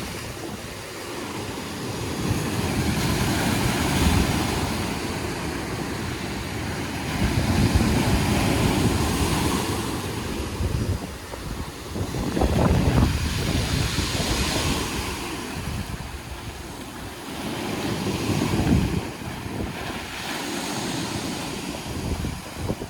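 Sea waves washing onto the shore, surging and falling back every few seconds, with wind buffeting the microphone.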